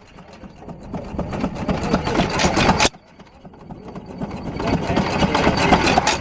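Antique hit-and-miss stationary gas engines running, with a repeating mechanical beat. The sound cuts off abruptly about three seconds in, then starts again quietly and grows louder.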